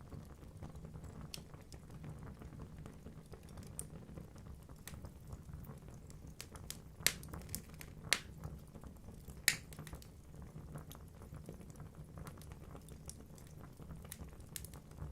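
Wood fire crackling in a fireplace: a steady low rumble of burning logs with scattered small snaps and three louder pops in the middle.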